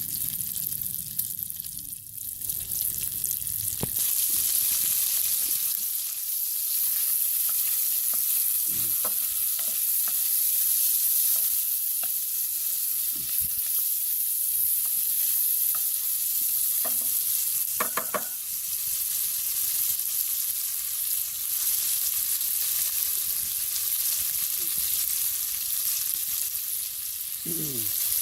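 Food frying in a pan over a campfire, a steady high sizzle with occasional small clicks and scrapes. A short squeak falls in pitch near the end.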